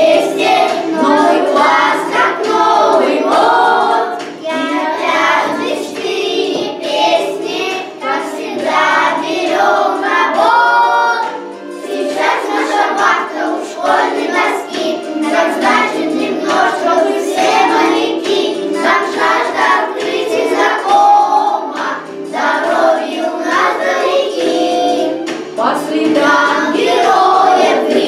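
A group of children singing a song together in Russian over an instrumental backing track.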